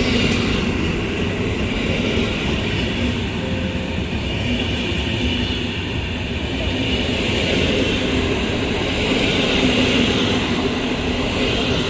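SKM suburban electric train running along the platform, with a steady rumble of wheels on rails and a faint high rail hiss throughout.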